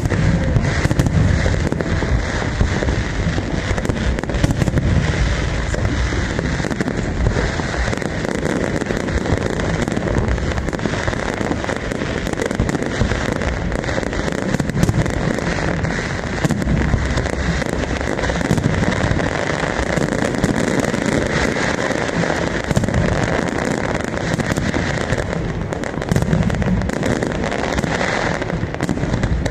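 Fireworks going off in a dense, continuous barrage: many overlapping bangs and crackles with no pause.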